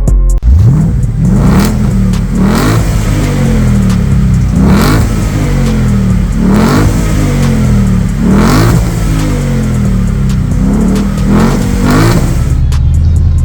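Ford Mustang GT's 5.0-litre V8 revved repeatedly through a loud aftermarket performance exhaust. The engine note climbs and falls back about six or seven times.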